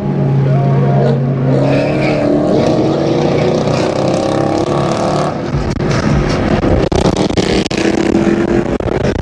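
Car engine and exhaust accelerating, the pitch climbing over several seconds, then a sudden change to a rougher, noisier car sound about five seconds in.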